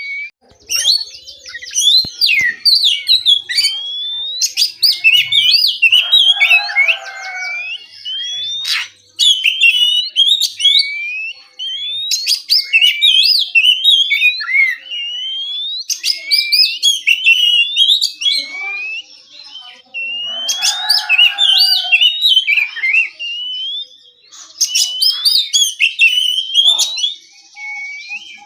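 Oriental magpie-robin singing a relaxed, varied song: runs of quick whistled notes that rise and fall, broken now and then by brief pauses.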